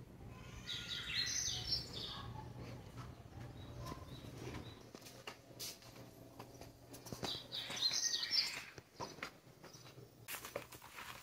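Small birds chirping outdoors in two short bursts of quick, high notes, about a second in and again around eight seconds, over faint background noise with a few light clicks.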